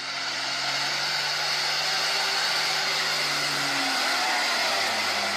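A vehicle driving: a steady rushing of road and wind noise with a faint low hum underneath.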